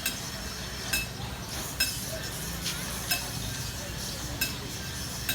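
Sharp metallic clinks, about one a second and slightly irregular, each with a short ringing tone, over a steady background hum.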